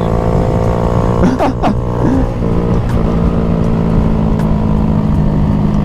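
Honda Grom motorcycle's small engine running at fairly steady revs while descending, with a brief swell and fall in pitch about a second and a half in.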